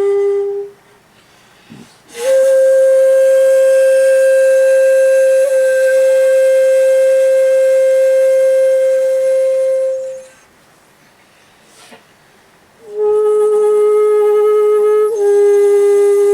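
Solo shakuhachi, the end-blown bamboo flute, playing slow held notes with pauses between them. One note fades out just after the start. After a pause, a higher note is held steady for about eight seconds. After another pause, a lower note comes in near the end.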